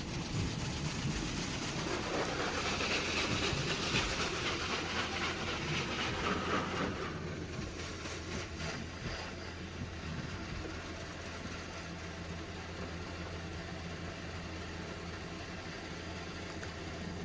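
Petit AquaTrack 360 touchless car wash spraying pre-soak onto the car, heard from inside the cabin: a hiss of spray that is strongest for the first several seconds and then settles quieter and steady, over a steady low hum.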